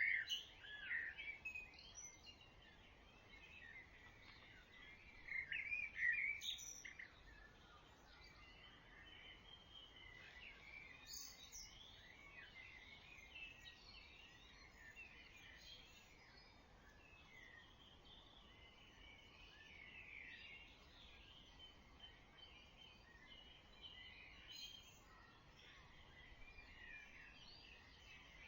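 Dawn chorus of several songbirds singing at once, a steady tangle of short overlapping phrases and trills, fairly faint. The loudest song comes right at the start and again about five to seven seconds in.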